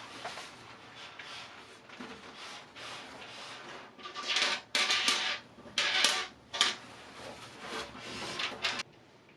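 A series of scraping, sliding strokes with small knocks, as of parts being moved or slid against each other. The strokes are loudest through the middle and stop sharply near the end.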